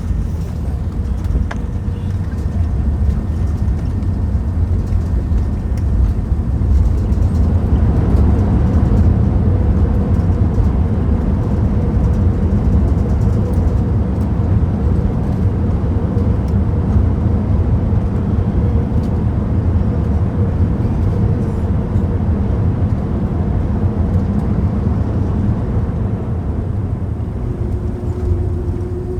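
Cabin noise of an Airbus A380 on its landing roll: a loud, steady low rumble of wheels and engines that swells about eight seconds in and eases near the end, where a steady hum comes in.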